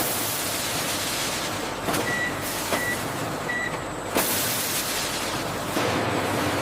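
Steady hissing machinery noise of a factory line, with scattered clicks and three short high beeps evenly spaced about two to three and a half seconds in.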